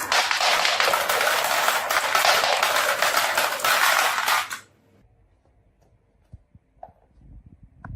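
Many marbles rattling and clicking together as they roll down a marble run, a dense clatter that cuts off suddenly about four and a half seconds in. A few faint, separate clicks follow near the end.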